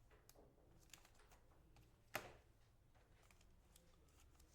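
Near silence with faint, scattered light clicks and taps of trading cards and card holders being handled, and one sharper click about two seconds in.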